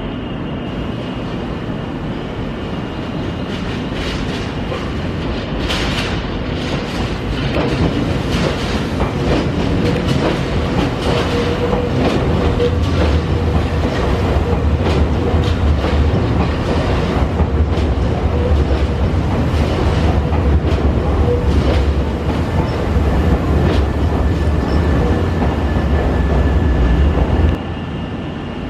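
Nankai electric train running slowly along the station tracks, its wheels clicking over rail joints and points, with a low rumble. It grows louder about seven seconds in and cuts off suddenly near the end.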